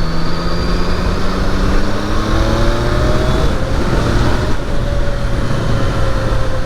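Triumph Daytona 660's three-cylinder engine pulling under acceleration, its pitch rising for about three seconds, then a gear change and a steadier, slowly falling pitch, with wind and road noise over the microphone.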